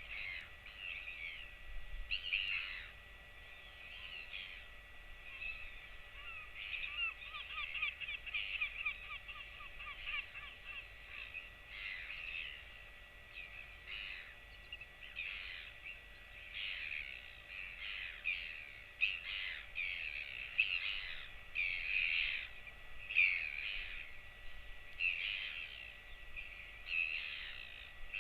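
Birds calling over and over, many short harsh calls overlapping, with a rapid trill of notes about a quarter of the way in.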